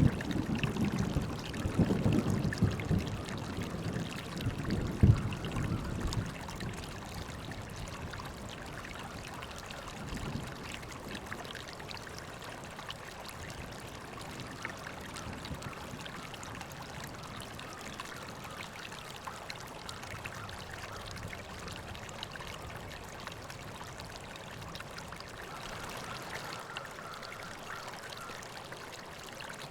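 River water flowing and trickling steadily. A low rumble fades out over the first six seconds.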